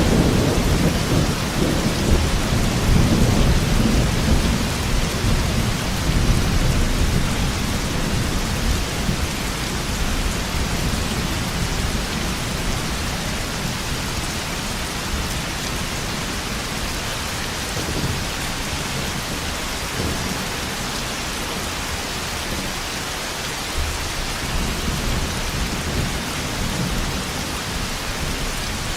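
Thunderstorm: steady heavy rain with rolling thunder, a long low rumble in the first several seconds that dies away, and a fainter rumble again near the end.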